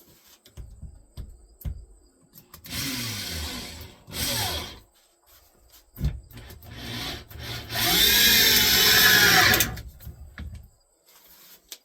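Corded 6-amp Black & Decker electric drill running in three bursts, driving screws into wood: a short run about two and a half seconds in, another just after, and a longer, louder run near eight seconds. Each time the motor whine rises and then falls away.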